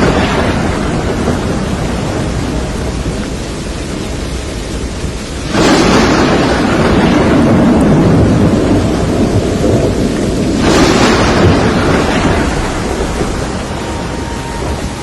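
Thunderstorm with steady rain and thunder: a clap about five and a half seconds in that rumbles on for several seconds, and another about eleven seconds in.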